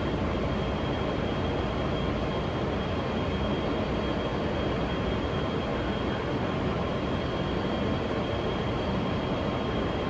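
Steady running noise inside a New York City subway car on an E express train, with an even rumble and rush and a faint steady whine above it.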